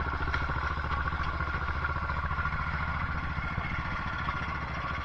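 A vehicle engine idling steadily, with an even, fast low pulse.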